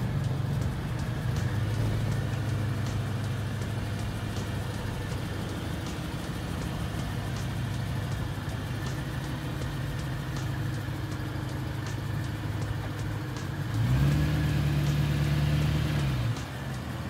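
BMW E93 M3's 4.0-litre V8 running at low speed as the car creeps back and forth. The engine note rises and gets louder about 14 seconds in, then falls back about two seconds later.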